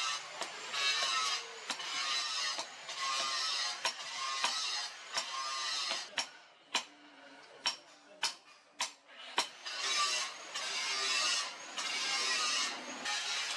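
Repeated rasping strokes of a hand tool scraping the rusted steel blade, about one a second. Several sharp clicks come in a pause in the middle.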